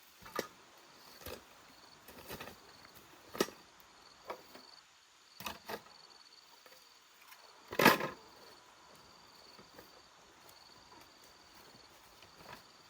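Scattered knocks and scuffs at irregular intervals, the loudest about eight seconds in, over a faint, broken, high-pitched insect trill.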